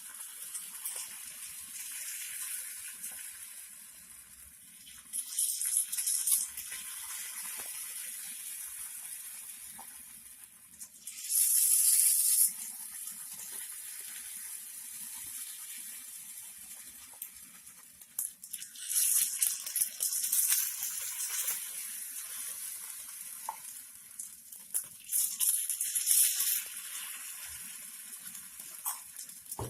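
Batter sizzling in hot oil in the holes of a cast paniyaram (paddu) pan: a steady hiss that flares up loudly four times for a second or more as fresh batter is spooned into the oiled molds.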